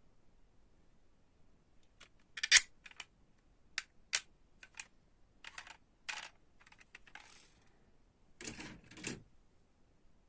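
Small diecast metal toy cars being handled and set down: a run of sharp, irregular clicks and clinks, the loudest about two and a half seconds in, a brief scrape around seven seconds, and a longer clatter near the end.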